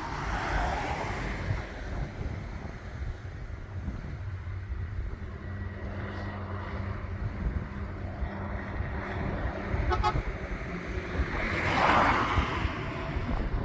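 Heavy trucks running and driving past, with a steady low engine drone in the middle and a louder rush of sound about twelve seconds in. Wind buffets the microphone.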